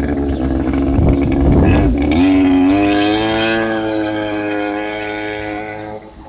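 Jet ski engine running under throttle, with a rough low rumble underneath at first. About two seconds in, its note rises in pitch and holds high and steady, then fades away near the end.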